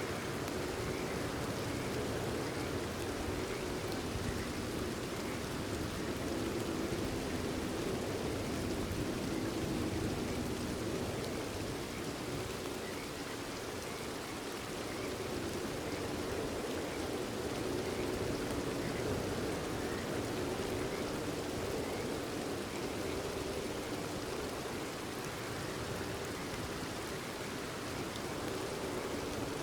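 Steady rain falling, with frogs calling faintly in a chorus beneath it.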